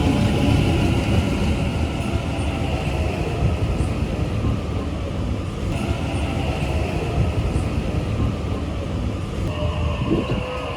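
Sydney suburban electric train running on the line, heard inside the carriage: a steady low rumble of wheels on track with a constant higher whine, and a short squeal near the end.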